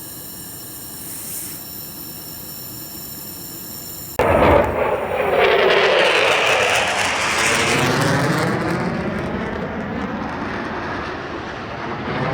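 Low-flying military jet passing through the canyon. A fainter steady hum gives way about four seconds in to a sudden loud roar with a sweeping, shifting pitch, which stays loud and fades slowly.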